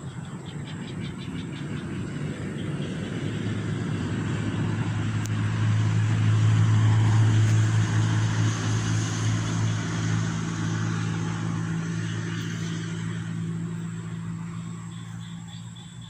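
A motor vehicle passing by: its engine hum grows louder, is loudest about seven seconds in, then fades away.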